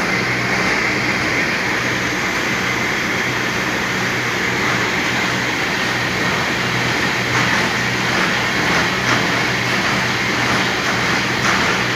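Tea factory CTC (crush-tear-curl) roller machines running: a steady mechanical din with a low hum and a few faint ticks in the second half.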